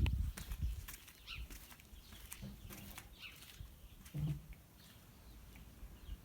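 Faint bird chirps outdoors, with soft knocks and rustling in the first second and a few scattered clicks.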